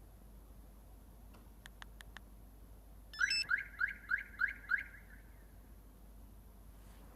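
A car alarm / remote-start siren chirps rapidly, about seven falling chirps at roughly four a second, after a few faint clicks.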